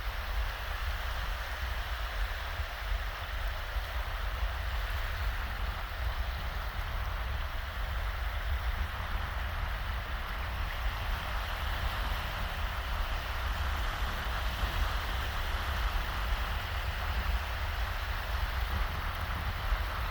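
Small shallow waves washing steadily on a sandy beach in a breeze, a continuous wash of noise over a low rumble.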